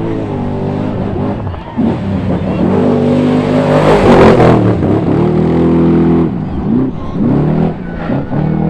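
Off-road Trophy Truck race engine revving hard, its pitch rising and falling repeatedly as the driver works the throttle through the jumps. It is loudest about four seconds in, as the truck passes closest with a rush of tyre and gravel noise.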